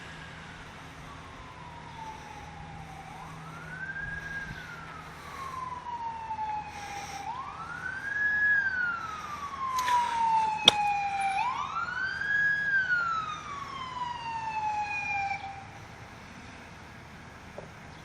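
Fire engine siren wailing as it goes by, each rise quick and each fall long and slow, about four seconds per cycle. It grows louder as it comes near, with one sharp click about two-thirds of the way through, and fades out about three seconds before the end.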